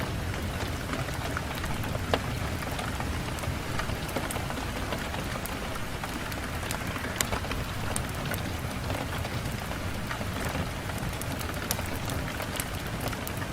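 Steady rain falling on a window: a constant hiss with scattered sharp ticks of single drops.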